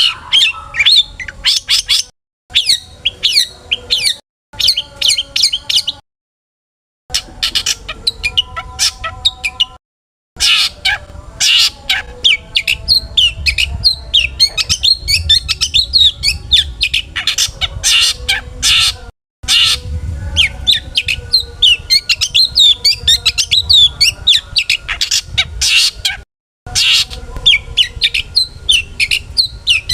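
Long-tailed shrike (cendet) singing a rapid, varied chattering song of quick high chirps and squawky notes over a faint low rumble. The song is broken by several sudden complete silences, where the recording is spliced.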